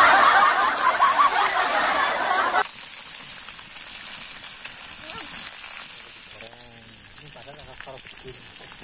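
Eels frying in hot oil: a loud burst of sizzling that drops off abruptly about two and a half seconds in, then settles into a quieter steady sizzle. Faint voices near the end.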